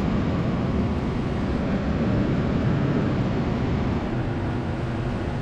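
Truck engine running steadily under way, with road and wind noise, heard from inside the cab.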